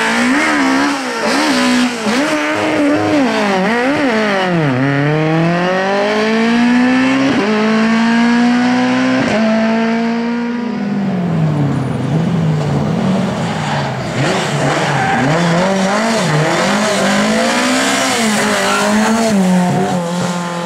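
Lada race car engine revving hard, its pitch climbing and dropping sharply at each gear change, then falling and rising again as it brakes and accelerates, with tyres squealing.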